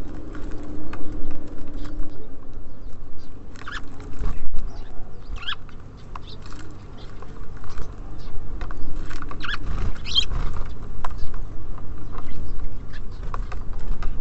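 Small birds at a feeder: scattered pecking and tapping, with brief chirps about four, five and a half, and ten seconds in.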